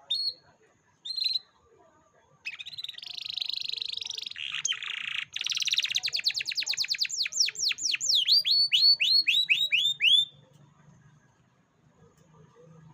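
Canary singing: two short chirps, then a buzzy trill that gives way to a quick run of repeated down-sweeping notes, slowing toward the end and stopping about ten seconds in.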